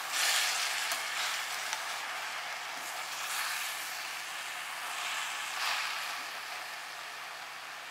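Stinging-nettle leaves with onion and tomato sizzling as they fry over a low flame in a stainless steel pot, stirred with a spoon. The steady sizzle swells briefly three times as the greens are turned.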